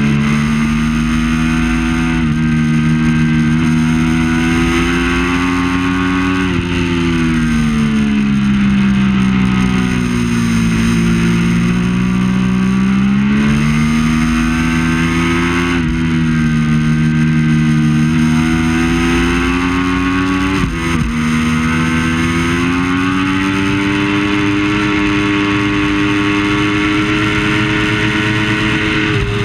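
Triumph Daytona 675 inline-three engine at race pace, the revs climbing through the gears and stepping down at each upshift. A third of the way in the pitch falls away for several seconds under braking into a slow corner, then builds again through further upshifts.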